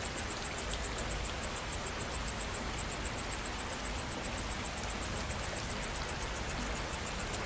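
Steady rain falling, with an insect chirping in a fast, even high-pitched pulse, about six or seven chirps a second.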